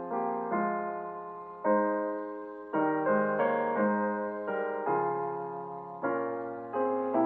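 Slow, gentle piano music: soft chords struck about once a second, each left to ring and fade before the next.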